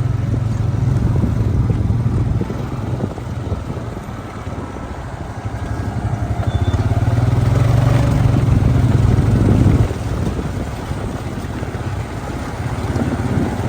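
Tractor engine running steadily under load while ploughing. It grows louder to a peak about ten seconds in, then drops off abruptly.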